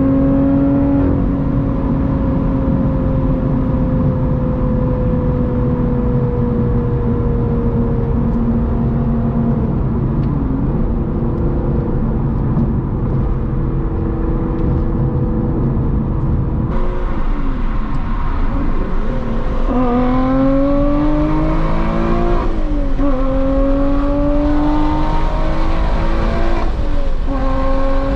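Lotus Evora GT's supercharged 3.5 V6 with a titanium exhaust, cruising at first with the revs slowly falling. About two-thirds in it accelerates hard through the gears, the pitch climbing and then dropping at each of three manual upshifts.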